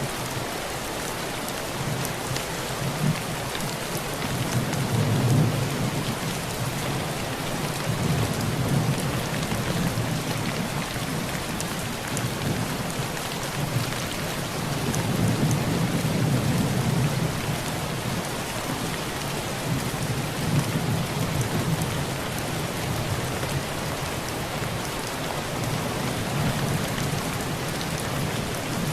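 Heavy rain falling steadily on a tin roof, with thunder rolling low twice, about five seconds in and again around the middle.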